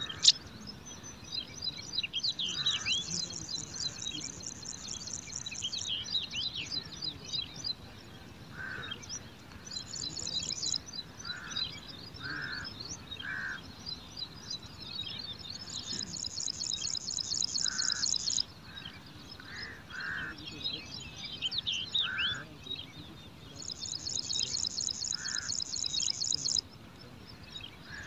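Wild birds chirping and calling: many quick high chirps and short whistling sweeps, with a high buzzing trill of two to three seconds that comes back four times, and short lower notes scattered between.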